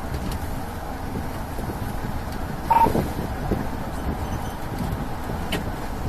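Steady low rumble of a vehicle running, with one short beep about halfway through.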